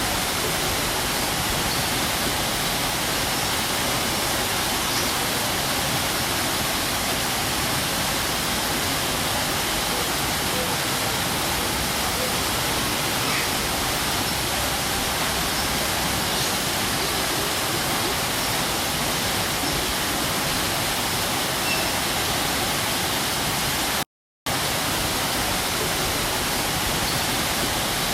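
Waterfall rushing in a steady, even roar of falling water, broken once near the end by a split-second gap of total silence.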